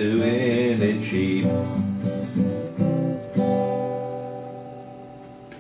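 Closing bars of a country-style song on acoustic guitar: a sung note ends in the first second and a half, a few strummed chords follow, and a final chord rings and fades out.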